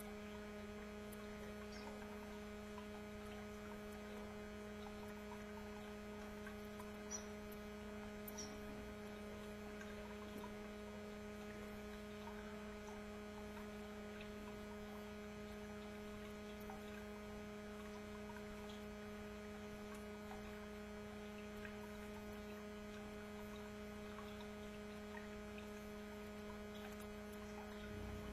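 Steady low electrical hum with a couple of fainter overtones, and two faint short high ticks about a third of the way in.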